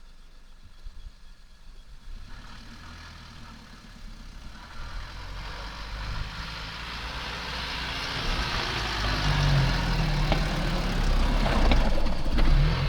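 Four-wheel drive's engine revving under load, growing steadily louder, as the bogged car strains to drive out of soft beach sand without 4-low range.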